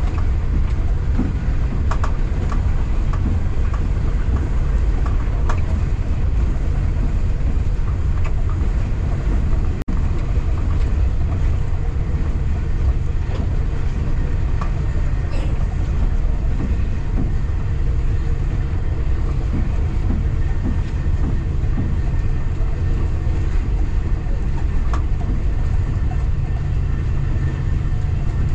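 A local passenger train running along the line: a steady, loud low rumble of the moving train, with a few scattered sharp clicks from the wheels and rails.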